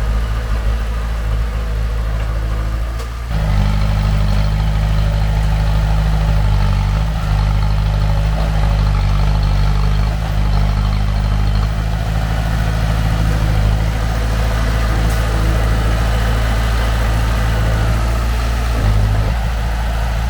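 Heavy diesel engine of earthmoving machinery running steadily, its low note growing louder about three seconds in as it works harder and holding there.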